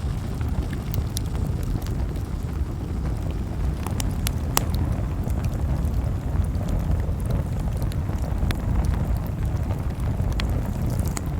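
Campfire burning: a steady low rumble of flames with sharp wood crackles and pops scattered irregularly through it, a few of them louder.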